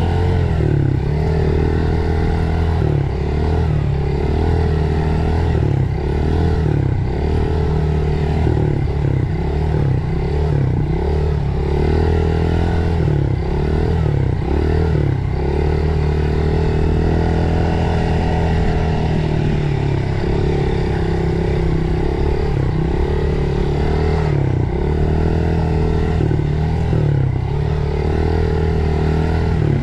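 Dirt bike engine running hard along a trail. Its pitch rises and falls again and again as the throttle opens and closes.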